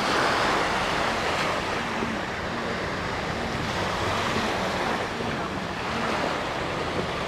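Sea waves washing onto the sand, with wind on the microphone and the faint low hum of a distant engine.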